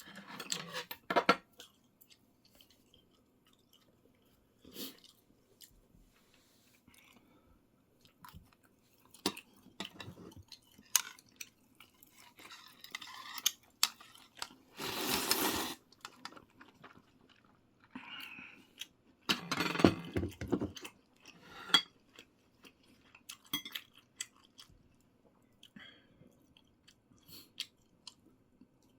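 A person chewing food close to the microphone, with scattered clicks of cutlery against dishes and two longer noisy bursts, about halfway and about two thirds of the way through.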